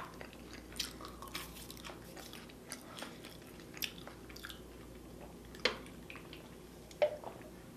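Close-miked chewing and biting: wet mouth sounds and soft crunches of someone eating, with a few sharper smacks, the loudest near the middle and near the end.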